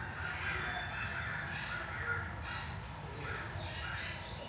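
Birds cawing repeatedly in harsh calls, over a low steady rumble.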